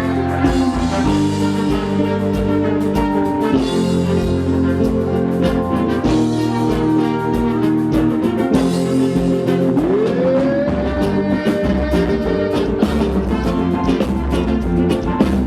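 A live band playing an upbeat instrumental passage with a steady drum beat under long held notes, and a note that slides up about ten seconds in.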